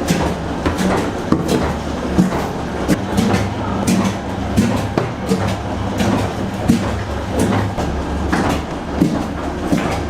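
Bread dough being pounded by machine: repeated thumps and knocks, about two a second, over a steady low motor hum.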